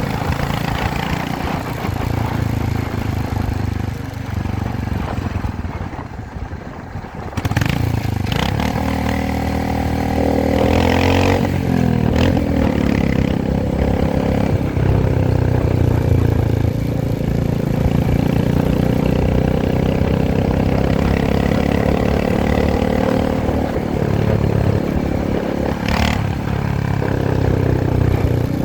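Royal Enfield Himalayan's single-cylinder engine running on the move. It drops quieter for a couple of seconds about six seconds in, then pulls again with its pitch rising and falling through the revs. A sharp click comes near the end.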